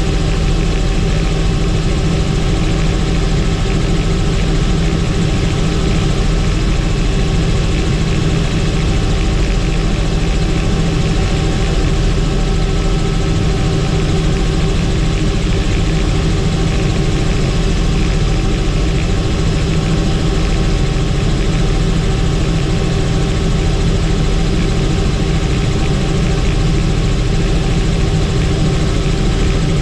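Helicopter turbine engine and rotors in steady cruise, a loud, even drone with a deep rotor throb and a constant whine over it.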